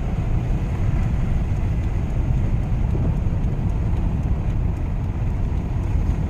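Steady low rumble of a vehicle heard from inside the cabin: engine and road noise with no distinct events.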